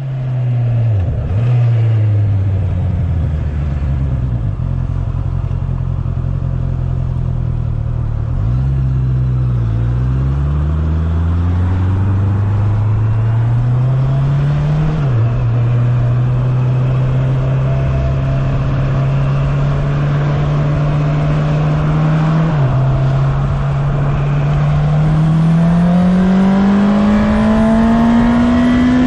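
2019 Honda CB650R's inline-four engine heard onboard while riding, mostly holding a steady note with a few short dips in pitch, from gear changes or easing off the throttle. Near the end the engine note climbs steadily as the bike accelerates.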